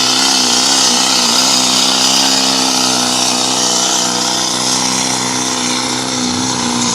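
Pulling truck's engine running loud and steady at high revs, its pitch wavering slightly.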